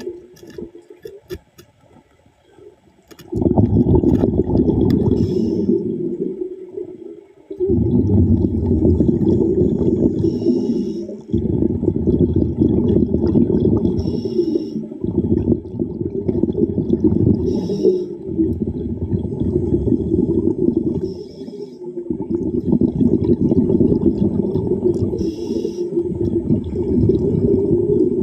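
Scuba diver breathing underwater through a regulator: long surges of exhaled bubbles rushing and gurgling, with short hissing inhalations every three or four seconds. Nearly quiet for the first three seconds.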